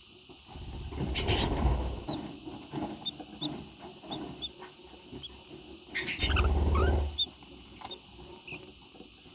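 Parrot giving soft short chirps and squeaks, with two louder bouts of scuffling, rustling noise: one about a second in and one about six seconds in.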